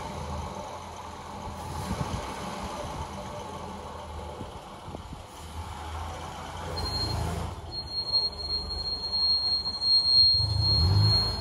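Opel Kadett B running with a low, uneven rumble while it is tried against rear drum brakes that the owner thinks are seized. About seven seconds in, a steady high-pitched squeal joins and holds, and the rumble gets louder near the end.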